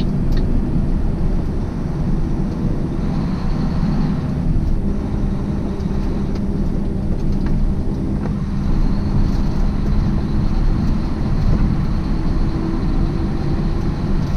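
Semi-truck's diesel engine and tyre noise heard from inside the cab while driving: a steady low drone.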